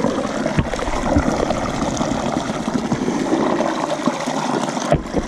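Water running steadily, a constant splashing flow which the explorers suspect is being drained or pumped out of the old mine. A couple of low bumps sound within the first second or so.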